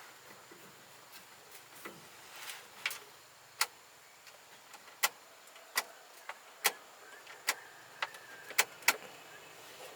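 A series of about ten sharp, short knocks or taps, irregularly spaced between half a second and a second apart and louder in the second half, like tool work during a repair.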